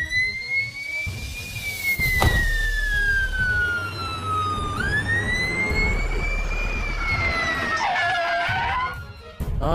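Emergency-vehicle wail siren in a cartoon, its pitch rising and falling slowly twice. There is a short knock about two seconds in.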